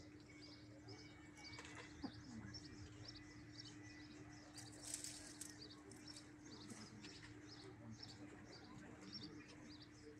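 Faint chirping and twittering of small birds, short high calls repeating all through, with a brief louder burst of calls about halfway. A steady low hum runs underneath.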